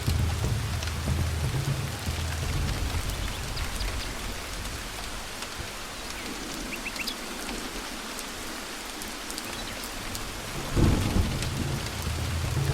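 Steady rain falling with thunder: a low rumble that fades away mid-way, then a sudden loud thunderclap near the end with the rumble rolling back in.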